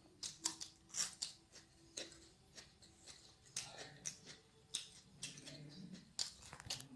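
A person eating close to the microphone: irregular crisp crunches and wet mouth clicks while chewing raw cucumber and noodles, a couple a second.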